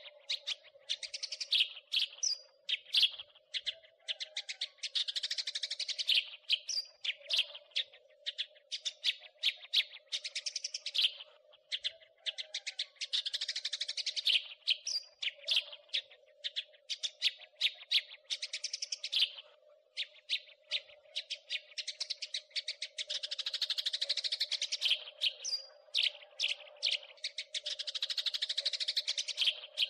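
House sparrow chattering: quick runs of sharp chirps broken by dense, rapid chatter bursts every few seconds. A faint steady hum lies underneath.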